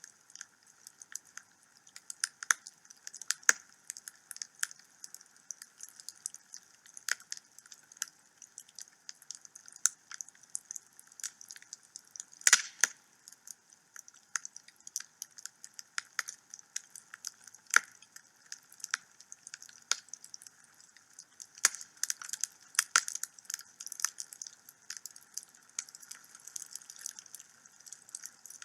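Wood fire crackling in a fireplace: irregular sharp pops and snaps, several a second, with one louder pop about halfway through.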